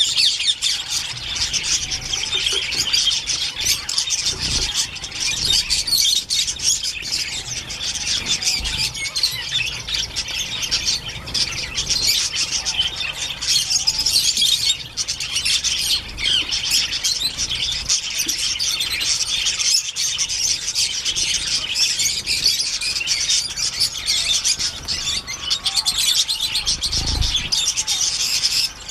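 Many small birds chirping and squawking at once in a dense, continuous chatter, with a few low thuds, the strongest near the end.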